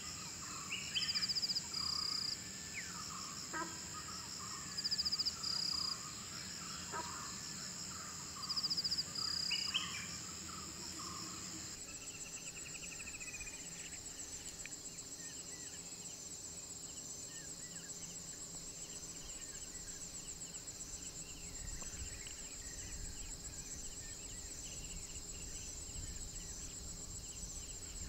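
Forest morning ambience: a steady high-pitched insect drone with birds calling over it, and three loud pairs of short shrill bursts in the first ten seconds. About twelve seconds in the bird calls drop away and the insect sound turns into an even, rapidly pulsing trill.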